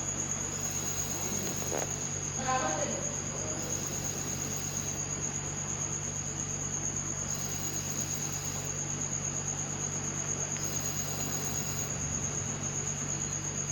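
Refrigerator compressor running with a steady low hum, under a continuous high-pitched whine that holds steady throughout.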